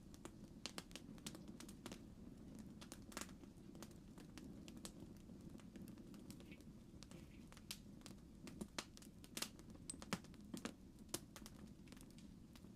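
Faint campfire crackling: irregular sharp snaps and pops of burning wood over a steady low background.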